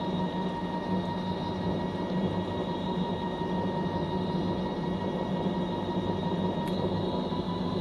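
Fisher & Paykel MW059 top-loading washing machine running mid-cycle: a steady motor whine over a low rumble, with no pauses.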